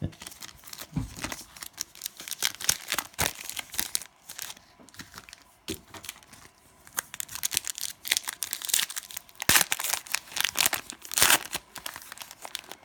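Cellophane wrapper of a trading-card pack being torn open and crinkled by hand, an irregular crackling that runs on with several louder crackles around the middle and near the end.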